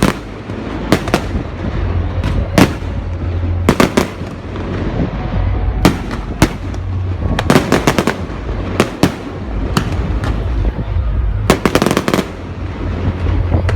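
Fireworks going off: sharp bangs at irregular intervals, some in quick clusters of several cracks, over a continuous low rumble.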